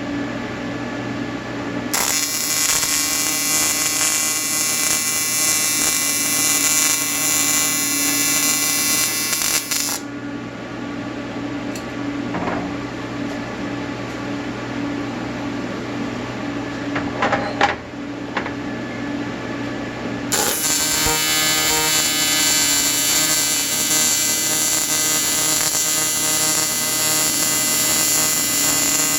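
Welding arc buzzing, switching on about two seconds in, off around ten seconds, and on again around twenty seconds, over a steady electrical hum from the welder.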